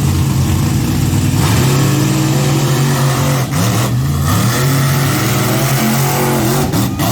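A large vehicle engine running loud, its pitch falling and rising as it revs in the middle and later part.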